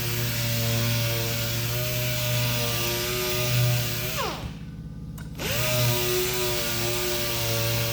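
Electric power sander running steadily on filler, its motor pitch dropping as it is switched off about halfway through, then climbing back as it is restarted about a second later.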